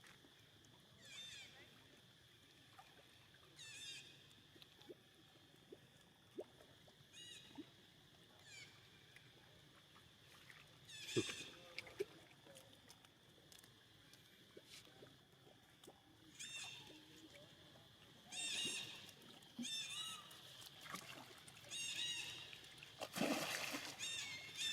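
Faint, short, high-pitched wavering squeals from a baby monkey, repeated every second or few seconds and coming more often in the second half. A louder noisy burst comes near the end.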